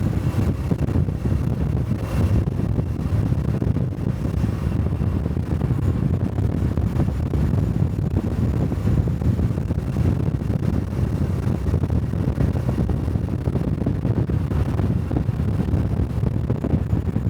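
Honda Cub 125 cc single-cylinder motorcycle engine and exhaust running steadily while riding, mixed with wind on the microphone.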